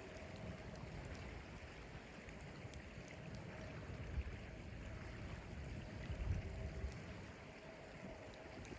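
Blizzard wind making a low, steady rumble with gusty swells, with a few faint clicks scattered through it.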